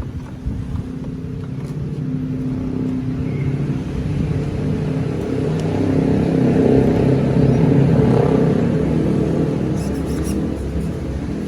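Nitro engine of a Hobao Hyper VS RC buggy running during break-in, getting louder toward its loudest point about seven to eight seconds in, then easing off slightly.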